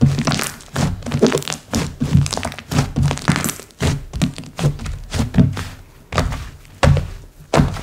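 Slime being squeezed and pressed by hand, giving repeated short wet pops and squelches of trapped air, about two to three a second and irregular.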